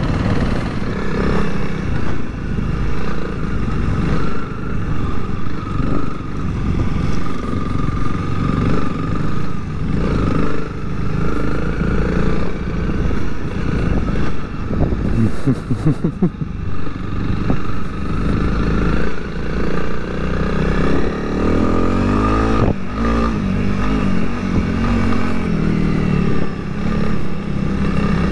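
Honda CRF 300L single-cylinder four-stroke trail bike engine running as it is ridden on an off-road course. The revs rise and fall as the throttle opens and closes, with short climbs in revs about halfway through and again around three-quarters of the way.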